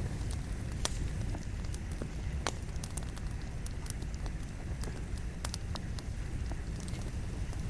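Wood campfire burning, with irregular sharp crackles and pops of the firewood over a steady low rumble, a few pops louder than the rest.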